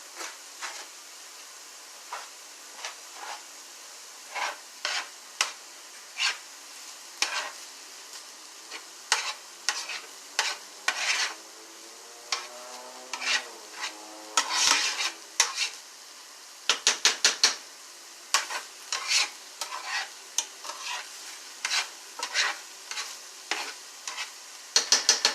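A spoon stirring and scraping in a frying pan, with irregular clatters, while turkey lunch meat and vegetables sizzle in a steady hiss.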